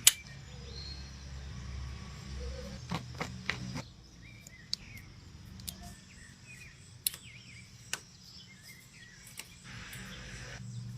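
Scattered sharp clicks and knocks, about ten of them at uneven intervals, over a low steady hum, with birds chirping.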